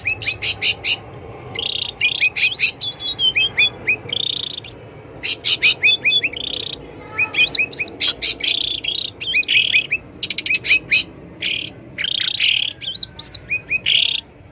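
Cucak ranting songbirds calling noisily in repeated bursts of quick, sharp, hooked chirps, with short pauses between the bursts.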